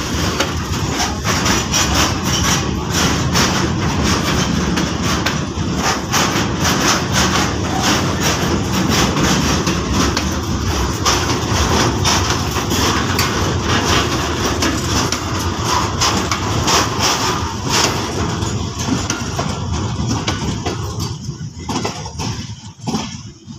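Container freight train's flat wagons rolling past close by, a steady rumble with many sharp clanks and knocks from the wheels and couplings. It fades near the end as the brake van passes and the train draws away.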